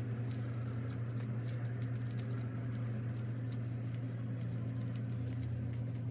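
Steady low hum with many light, irregular clicks and taps over it, typical of kitchen work.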